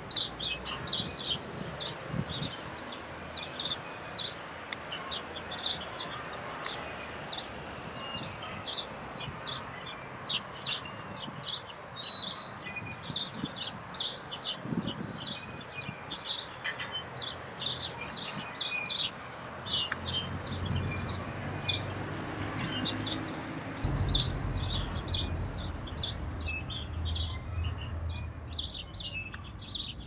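Birds chirping: a dense stream of short, high calls of varying pitch. A low hum joins in about two-thirds of the way through.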